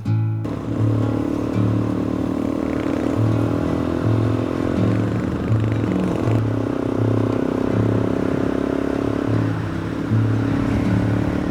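Single-cylinder trail motorcycle engine running under load, pulling steadily with a brief drop about six seconds in like a gear change, then pulling again until near the end. A pulsing bass beat from background music carries on underneath.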